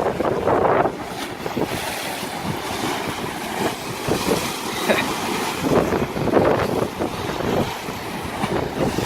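Wind buffeting the microphone, rising and falling in gusts, over the wash of open water.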